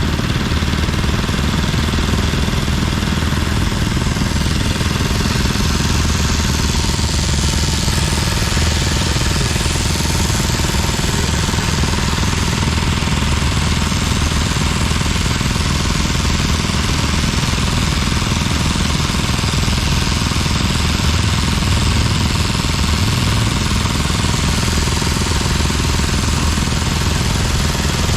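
Vintage stationary engine running steadily, with a rapid, even beat that does not change.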